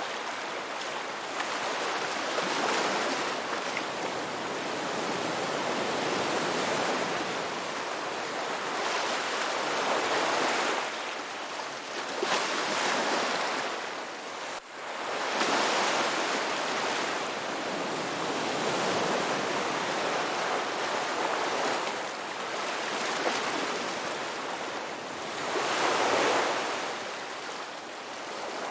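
Ocean surf washing onto a rocky beach: a continuous rush of water that swells louder every few seconds as waves break, with one brief dip about halfway through.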